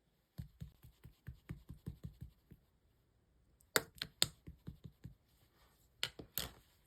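Slime being pressed and folded by hand to trap and pop air pockets, making runs of small wet popping clicks at about five a second, with a few sharper, louder pops about midway and again near the end.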